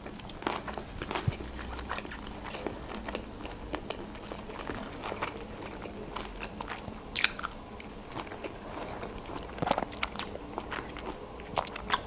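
A person chewing a mouthful of sushi roll, a run of small wet mouth clicks and smacks. The sharpest click is about seven seconds in, another near ten seconds.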